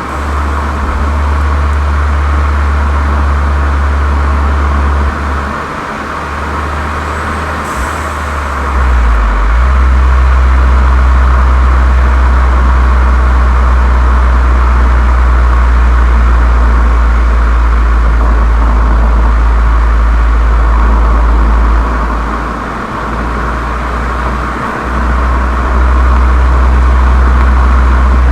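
Volkswagen Golf 7 GTI's 2.0 turbocharged four-cylinder running through a Cox aftermarket muffler and chamber, a steady low exhaust drone over road noise. The drone eases off briefly twice, once about a fifth of the way in and again about four-fifths through, then comes back.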